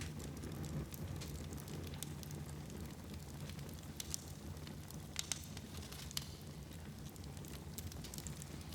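Fire burning in a fireplace, crackling with scattered sharp pops over a steady low rumble. A few louder pops come a little after four and around five seconds in.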